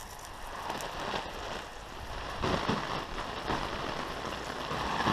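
Water spray falling on a pop-up tent's fabric, sounding like heavy rain. It gets somewhat louder about two and a half seconds in.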